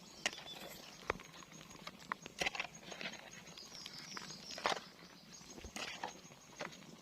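Irregular knocks and short scuffs on the ground, about one a second, some ending in a brief scrape.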